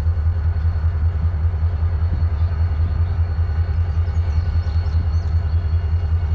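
Diesel locomotive running past with a steady, pulsing low rumble.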